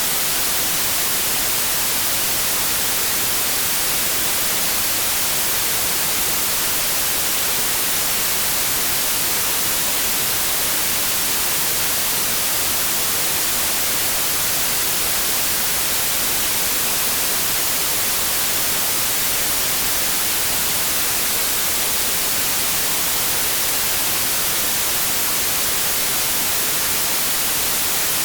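Synthetic white noise: a steady, unchanging static hiss, brightest in the treble.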